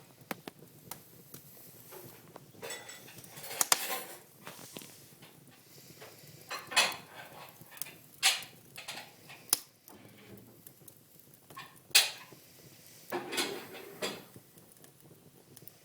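Wood fire in a fireplace crackling, with irregular sharp pops and a few short, louder bursts of crackle.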